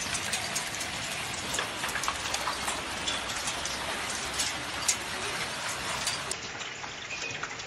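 Dense patter of small volcanic stones (lapilli) from an Etna eruption falling and striking hard surfaces, with many sharp ticks over a steady hiss; slightly quieter after about six seconds.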